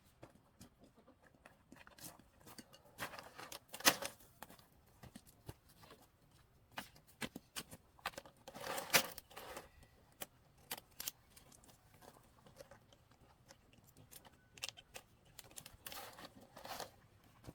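Hand work with bamboo: irregular clicks, knocks and short scraping rasps, the loudest about 4 and 9 seconds in.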